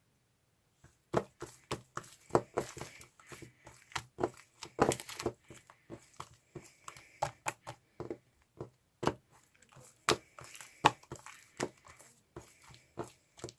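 Slime being squeezed and stretched by hand: a dense, irregular run of small sticky pops and crackles as air bubbles in the bubbly slime burst, starting about a second in.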